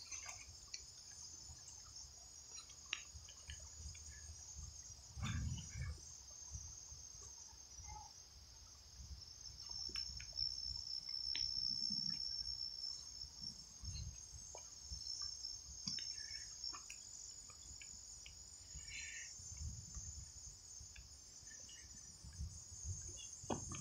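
Steady, faint, high-pitched chorus of late-summer insects in woodland, with soft footsteps on the trail and a few faint chirps.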